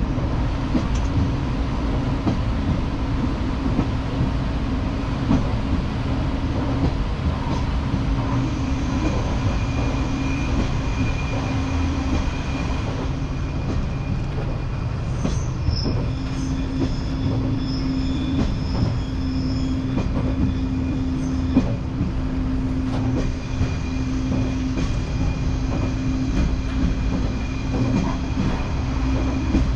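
Diesel rail vehicle running along the track: a steady engine and running drone, with scattered clicks of the wheels over rail joints and thin, high wheel squeal at times.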